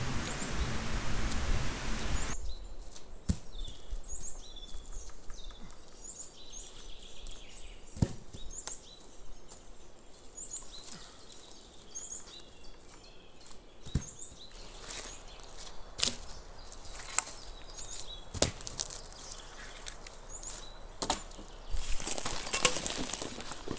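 A small bird giving short, high, rising chirps about once a second, with scattered sharp knocks or snaps. Louder noise for the first two seconds stops abruptly, and returns near the end.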